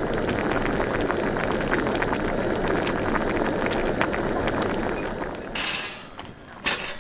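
A pot of tofu stew boiling hard, a dense steady bubbling with fine crackling pops. It cuts off about five and a half seconds in with a short clatter, then a single sharp click.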